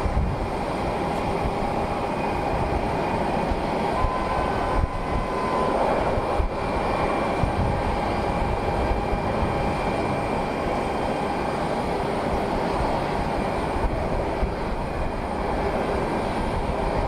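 Jet aircraft engines running steadily, an even roar of noise with faint steady tones in it.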